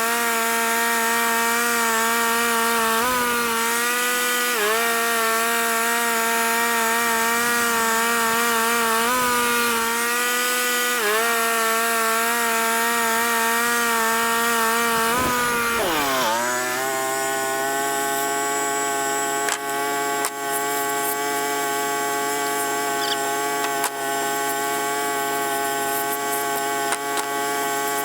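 Portable band sawmill's engine running at high speed while the blade saws a black walnut log, its pitch dipping briefly every couple of seconds under load. About sixteen seconds in it winds down and settles to a lower, steady speed, with a few light clicks afterwards.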